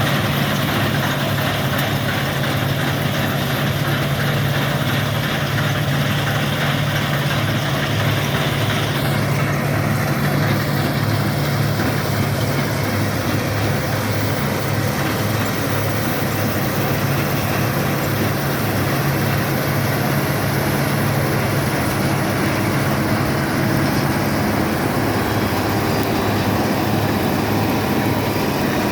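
Bizon Rekord Z058/1 combine harvester's 6CT107 six-cylinder diesel engine running steadily at a constant speed. A high hiss above the engine note eases off about nine seconds in.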